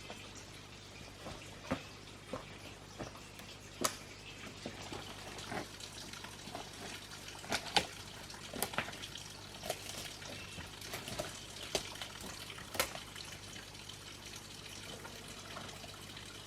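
Water trickling and dripping, with irregular sharp drips or clicks scattered through it.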